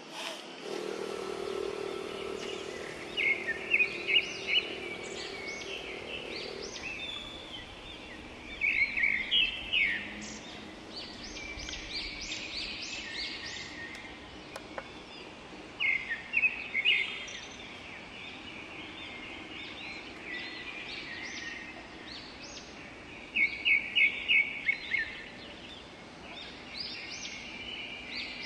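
A bird singing a short phrase of rapid, high chirps, repeated about every seven seconds, over a steady outdoor background hiss. A low steady hum runs under the first few seconds.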